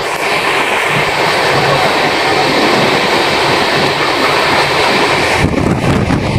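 Running noise of a moving train, heard from inside at an open window or door: a steady rush and rumble of wheels on the rails and air going past. Near the end it shifts to a deeper rumble with less hiss.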